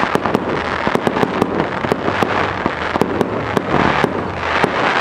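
Fireworks going off: a rapid, irregular string of sharp bangs and crackles, with denser swells of crackling about halfway through and again near the end.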